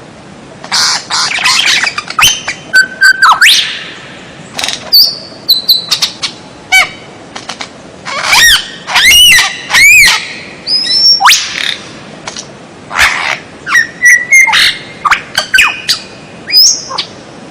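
Songbird calls: a varied run of short whistles, sharp chips and bending notes, coming in quick phrases separated by short pauses.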